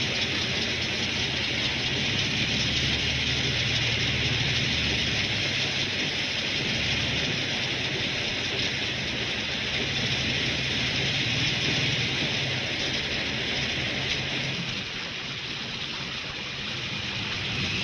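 Steady heavy rain falling on and around a car, with the car's engine running low underneath. Near the end the engine sound falls away and the rain goes on alone, slightly quieter.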